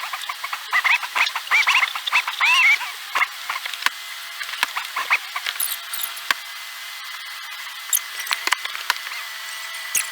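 A run of short, high-pitched squeaks in the first few seconds, followed by scattered sharp clicks and knocks.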